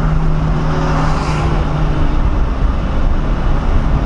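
1997 SVT Cobra Mustang's 4.6-litre V8 running at a steady pitch, heard from inside the cabin over road rumble. There is a brief rush of hiss about a second in.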